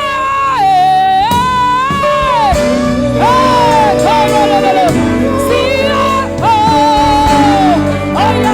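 Gospel worship song: a singer holds long, wavering notes and slides between them, with a band playing underneath.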